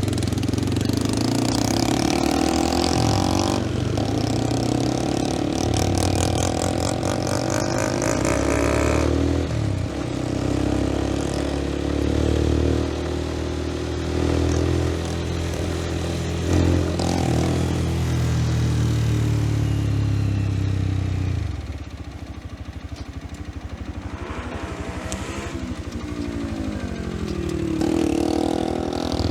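A 125 cc single-cylinder motorcycle engine running under way, its pitch rising and falling with throttle and gear changes. It drops back about two-thirds of the way through and climbs again near the end.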